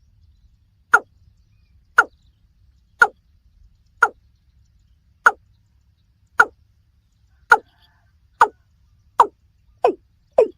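Watercock (kora) calling: a series of eleven short notes, each falling in pitch, about one a second at first and quickening toward the end.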